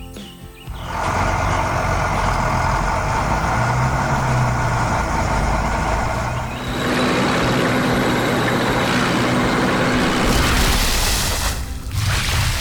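Heavy truck engine sound effect running steadily, changing in tone about halfway through, with a loud hiss about ten seconds in.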